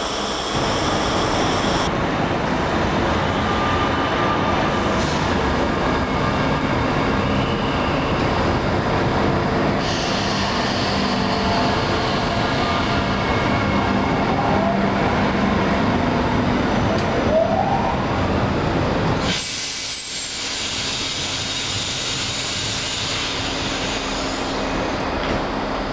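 Mittelrheinbahn electric multiple unit running along the platform: a steady rumble of wheels and running gear, with a short rising whine near the end. Partway through, this cuts abruptly to a quieter, steady station hum.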